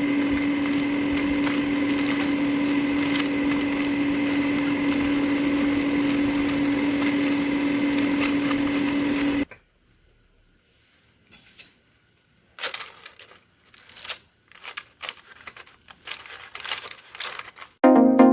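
Air fryer running with a steady hum and fan whoosh, cut off abruptly about halfway. Then scattered light clicks and knocks, with music starting at the very end.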